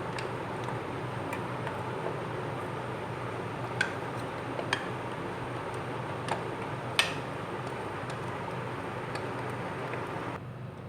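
Steady motor hum with a few scattered sharp clicks; the hum cuts off abruptly shortly before the end.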